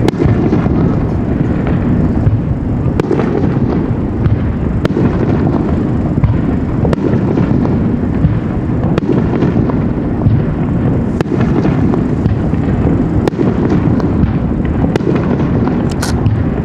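Fireworks display with shells bursting in quick succession: a continuous heavy rumble of booms, broken by sharp cracks every second or two, and a short crackling hiss near the end.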